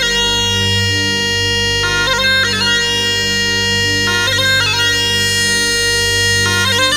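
Bagpipe music: sustained notes over a steady drone, broken by quick trilled runs about every two seconds.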